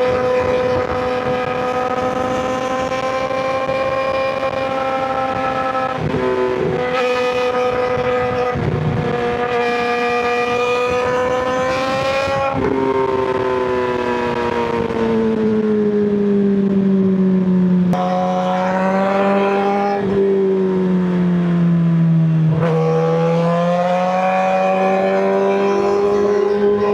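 2023 Suzuki GSX-R600's inline-four engine through a Yoshimura M4 slip-on exhaust, running at high revs with a steady, high-pitched note. The pitch slides and steps down through the middle, with several abrupt changes, then climbs again near the end.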